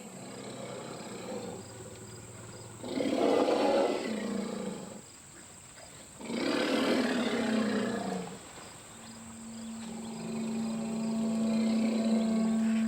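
Two loud, deep animal roars, each about two seconds long and falling in pitch, the second starting about a second and a half after the first ends. A steady low hum follows near the end.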